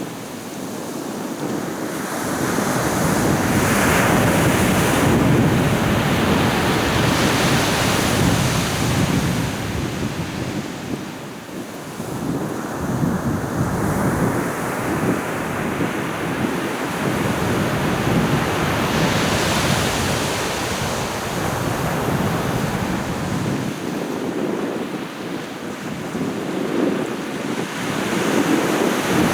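Ocean surf breaking and washing on the shore in slow swells, louder for a while early on and easing off at times, with wind buffeting the microphone as a low rumble.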